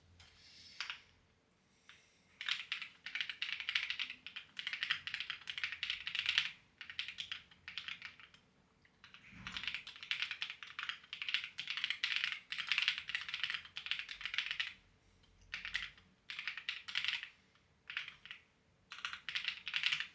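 Clacky computer keyboard being typed on in fast bursts of keystrokes, with short pauses between runs.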